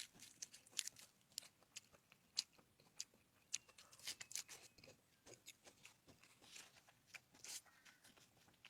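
Quiet close-up eating sounds: a person chewing crunchy food, with irregular crisp crunches and mouth clicks.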